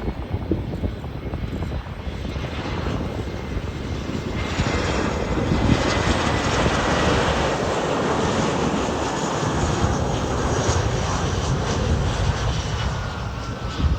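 Airbus A321 jet engines on a landing approach: a spread of jet noise that builds about four seconds in, stays loud through the middle and eases near the end, with a faint high whine sliding down in pitch.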